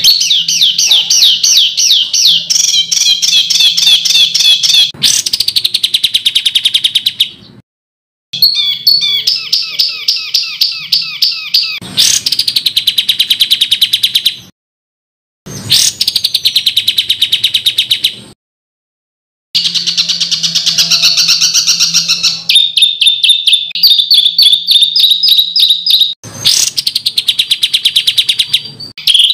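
A songbird singing harsh, rapid 'tembakan' phrases: loud, fast runs of repeated high chattering notes and trills, some opening with a sharp downward sweep. The song comes in four edited stretches, each ending abruptly in a brief silence.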